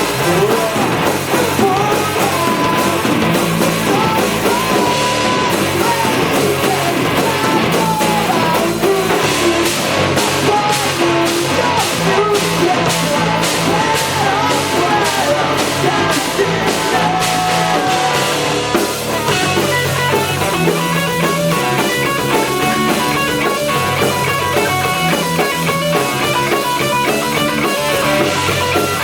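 Rock band playing live: electric guitar, bass, drum kit and a lead voice singing. Steady cymbal strokes, about two a second, run through the middle. The singing stops about two-thirds in and the band plays on.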